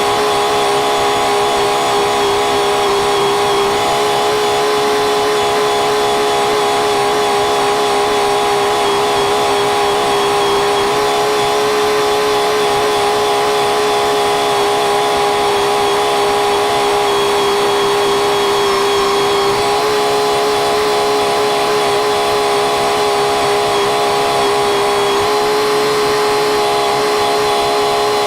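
Tractor engine running steadily at a constant speed: a continuous drone with a fixed whine over it.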